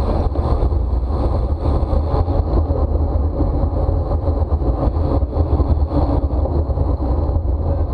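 Wind buffeting the microphone of a camera on a bicycle moving at racing speed, a steady rumbling rush mixed with tyre and road noise.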